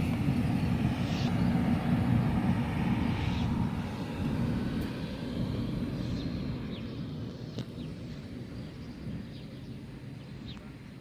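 Low engine rumble of a passing vehicle, swelling about two seconds in, then slowly fading away.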